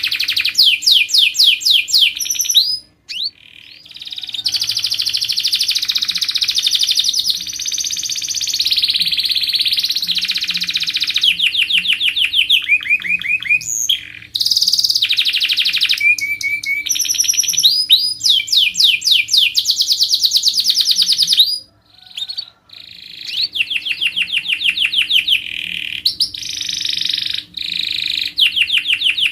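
Domestic canary singing a long, loud song of fast trills and rolls of repeated notes, switching from one trill to the next, with two short breaks, about three seconds in and about 22 seconds in.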